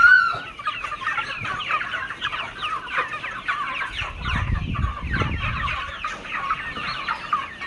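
A flock of chickens calling and clucking: many short, overlapping calls at once, with a low rumble about halfway through.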